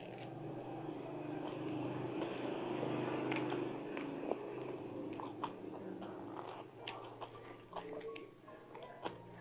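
Close-up biting and chewing of a soft white-bread sandwich with egg and cabbage filling, with many small sharp clicks and crackles, and the parchment-paper wrapper crinkling.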